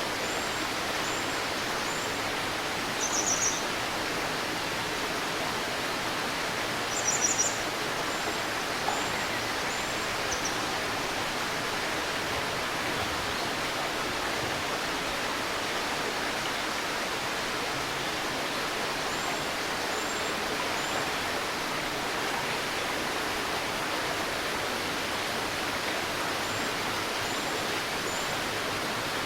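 A shallow river babbling steadily, with high bird calls on top: two short trilled bursts about three and seven seconds in, and thin high whistles in little runs of two or three spread through.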